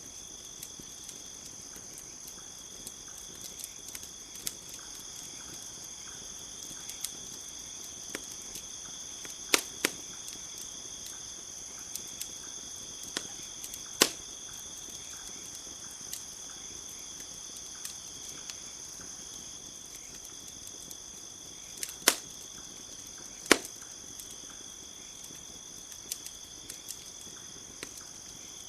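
Campfire crackling, with scattered small snaps and a handful of loud sharp pops, over a steady high chorus of crickets.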